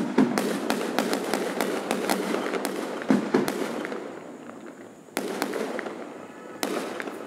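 Aerial fireworks bursting: a dense crackle of sharp bangs and pops for the first few seconds, then two more sudden bangs about five and six and a half seconds in, each trailing off.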